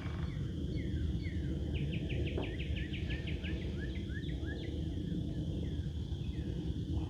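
Small songbirds chirping in short, sliding notes, with a rapid trill of about a dozen quick notes about two seconds in, over a steady low rumble.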